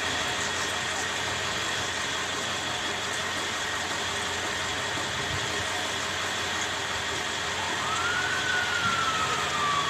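Emergency vehicle siren over steady vehicle and outdoor noise. Faint high siren tones slowly drop in pitch. About three-quarters of the way in, a siren winds up quickly, then falls slowly in one long sweep.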